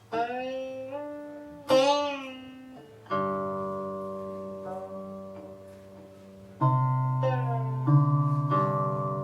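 Guqin (seven-string Chinese zither) played solo: about six plucked notes, each ringing and slowly fading, several bending in pitch after the pluck as the stopping finger slides and wavers on the string. Near the end, low and high notes sound together.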